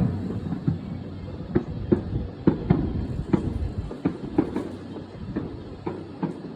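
Fireworks going off at close range: an irregular run of sharp bangs, several a second at times, over a low rumble.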